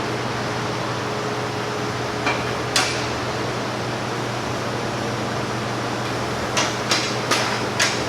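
Steady fan-like hum with about half a dozen sharp metallic clicks and knocks from tools as headers are fitted to the car.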